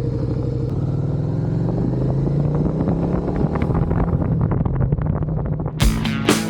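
Motorcycle engine running under way, its pitch rising as the bike accelerates and then holding steady. Near the end, background music with a steady beat comes in over it.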